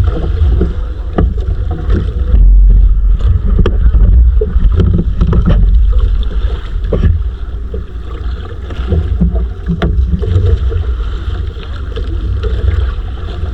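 Wind rumbling on the microphone aboard a small fishing bangka at sea, with the hiss of wind and water and scattered light knocks and clicks.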